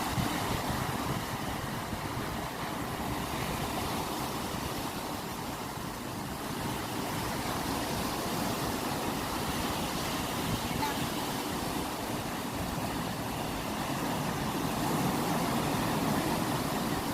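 Ocean waves breaking and washing in, a steady rushing noise that swells a little near the end.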